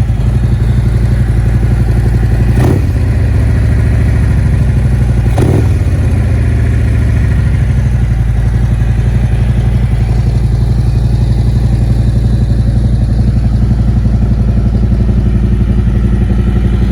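Harley-Davidson Milwaukee-Eight 114 V-twin fitted with torque cams and a Khrome Werks full exhaust, idling steadily shortly after a cold start. There are two short throttle blips, about three and five and a half seconds in.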